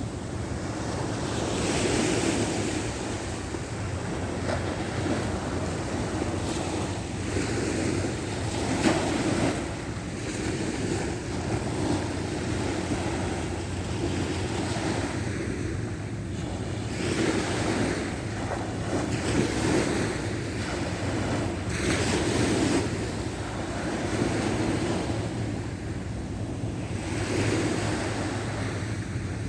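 Sea waves breaking and washing on the shore, the surf swelling and falling back every few seconds, with a steady low rumble of wind on the microphone.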